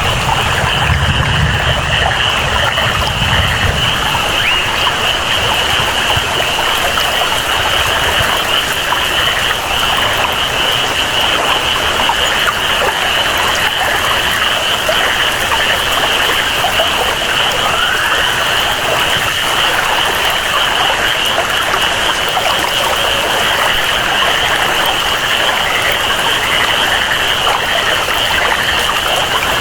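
Rainforest ambience: steady rainfall and flowing water, with a continuous high-pitched chorus of jungle animals such as frogs running through it. A low rumble fades out in the first few seconds.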